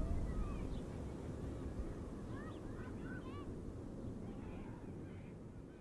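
Birds calling outdoors, a scatter of short rising-and-falling calls, over a low steady rumble; the whole sound fades down toward the end.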